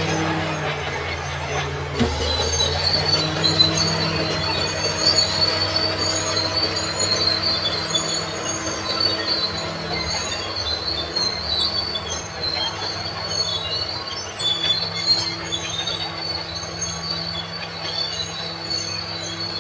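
Crawler bulldozer at work: diesel engine running under shifting load, with a steady high squeal and clatter from its steel tracks. A sudden knock about two seconds in.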